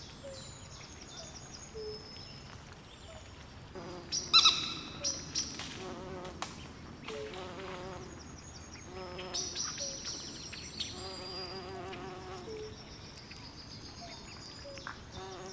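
Night swamp chorus of frogs and insects: many short chirps and trills repeating at several pitches over a faint hiss, with a louder cluster of calls about four seconds in.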